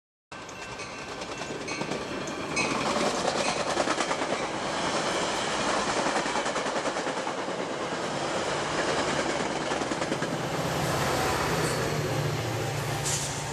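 A train passing close by, its wheels clicking rapidly over the rail joints with a dense rushing noise. A low steady hum, like a locomotive engine, joins in near the end.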